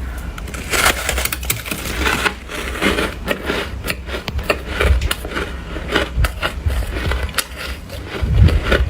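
Close-up biting and chewing of shaved snowflake ice: a run of quick, irregular crunches and crackles. The ice has been softening in a freezer without power and is no longer crisp.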